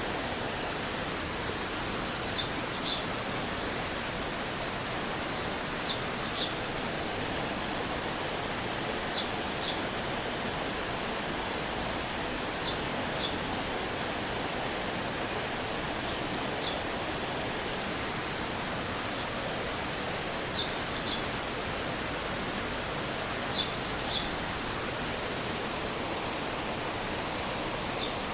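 Stream water rushing steadily. A high chirp of two or three quick notes repeats about every three to four seconds.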